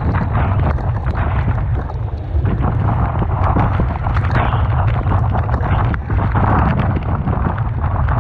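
Typhoon-force wind buffeting the microphone with a deep, continuous rumble, over rough surf and crashing waves whose noise swells and ebbs every second or two, with crackling spray.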